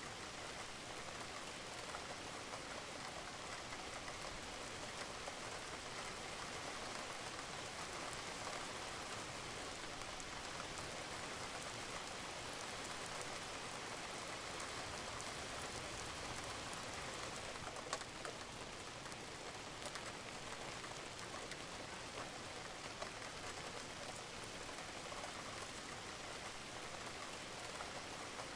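Steady rain falling on a roof, an even patter with scattered individual drop ticks, one a little sharper about two-thirds of the way in.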